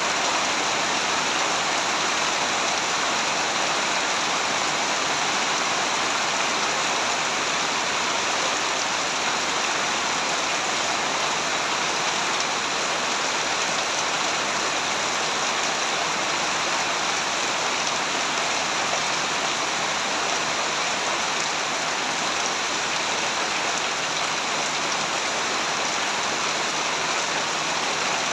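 Steady heavy rain, an even unbroken hiss of falling rain.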